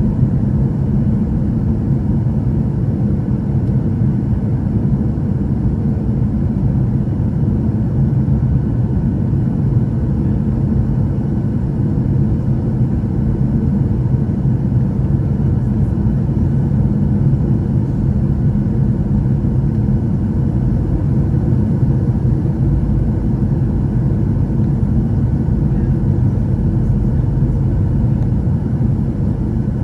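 Steady low cabin rumble of a Boeing 737-800 in flight on approach, from its CFM56 engines and the airflow over the fuselage, heard from inside the cabin.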